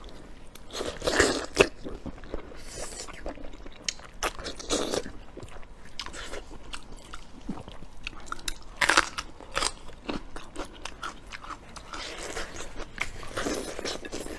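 Close-up eating sounds: a person biting and chewing food with mouth clicks and irregular crunchy crackles, a few louder bites standing out.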